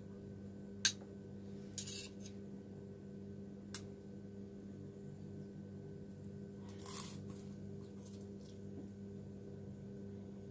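Metal chopsticks clicking lightly against a bowl while instant noodles are mixed and lifted: a few scattered clicks over a steady low hum.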